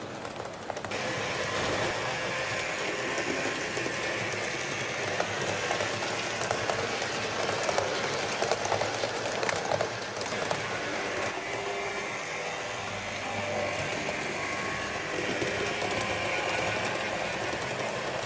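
HO-scale model train running on the layout track: a steady mechanical whir with many rapid clicks from the wheels on the rails, getting louder about a second in.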